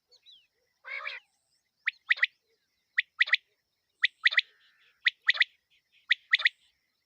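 Quail (batair) calling: a phrase of one sharp note and then a quick double note, repeated five times about a second apart. About a second in there is a single harsher, lower call.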